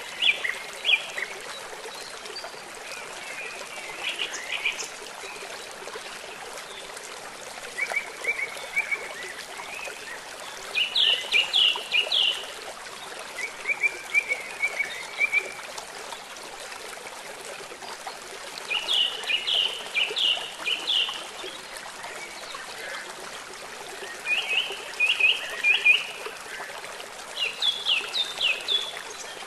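Steady rush of running water, with a bird calling in short bursts of four to six quick chirps every few seconds.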